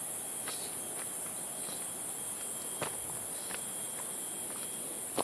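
Steady high-pitched chorus of insects in tropical forest, with a few scattered footsteps.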